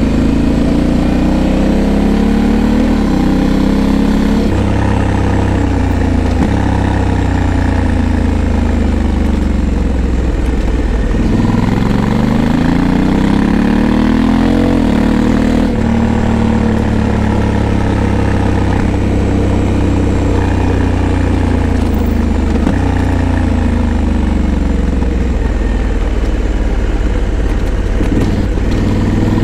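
Honda Africa Twin 1100's parallel-twin engine running on the move, its revs rising and falling several times as the bike speeds up and slows.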